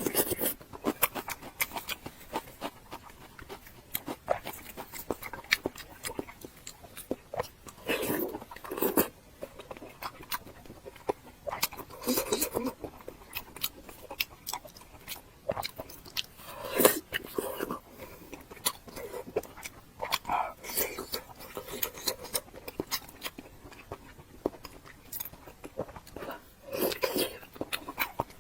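Close-miked eating: biting and chewing with many short wet mouth clicks and crunches. Louder clusters of mouth noise come every few seconds.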